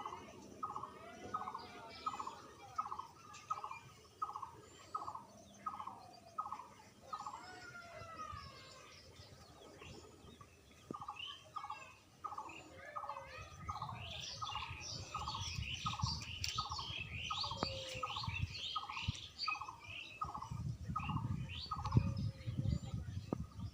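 A bird calls one short hooked note over and over, a little under two a second, pausing briefly partway through, while other birds chirp higher up. In the second half a low rumble comes in, with a single thump near the end.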